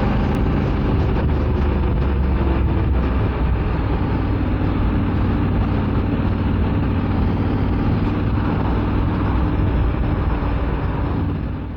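Honda Africa Twin's parallel-twin engine running steadily while riding, under wind and road noise; the sound fades out near the end.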